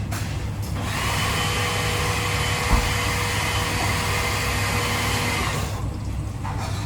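A small electric motor in a kitchen appliance whirs steadily for about five seconds, starting about a second in and cutting off suddenly near the end. There is a single knock midway, over a low steady hum.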